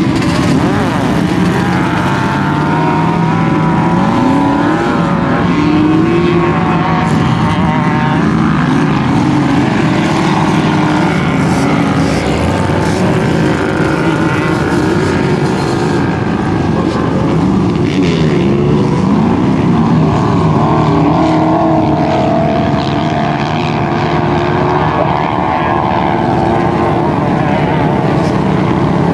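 Sand rail's LS2 V8 engine running hard, its pitch rising and falling over and over as the throttle is worked.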